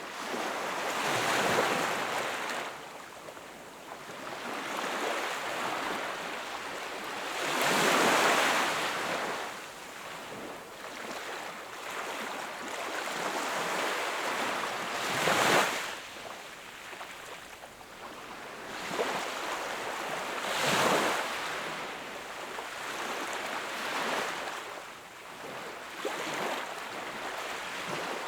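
Sea waves washing onto a shore, each wave swelling and breaking then drawing back, about every six or seven seconds, over a steady surf hiss.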